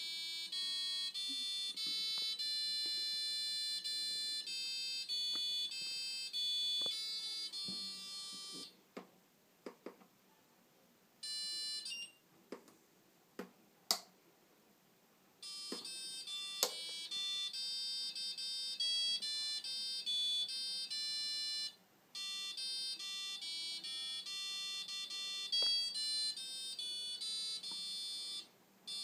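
Washing machine's electronic beeper playing a tune of bright beeping notes, one note after another. The tune stops for several seconds, with a few sharp clicks in the gap, then plays on with one short break.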